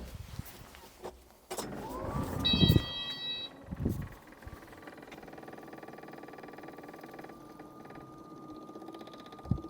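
Kubota's electric fuel pump running with the key on and the engine off, a steady hum with fast ticking as it primes fuel into the fuel filter and pushes out air. A short high beep comes about two and a half seconds in, and a thump near the end.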